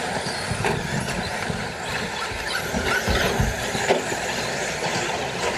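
Brushless electric RC short course trucks racing on a dirt track: a steady whirring noise of motors and tyres, with scattered knocks and a few short rising motor whines.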